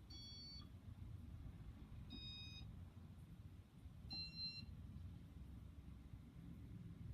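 Three short electronic beeps about two seconds apart, each a cluster of high tones at a slightly different pitch, from the Casablanca Nouvelle ceiling fan's control as it steps through demo mode. A faint low hum runs underneath.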